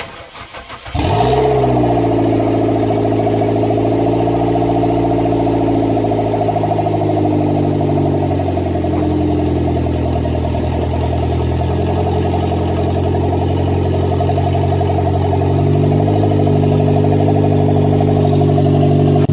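Toyota MR2 Roadster's turbocharged 1ZZ four-cylinder engine starting from cold about a second in, then idling steadily with small wavers in speed.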